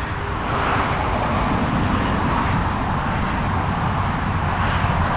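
Steady road traffic noise: the rush of passing cars with a low rumble, swelling near the start and again near the end.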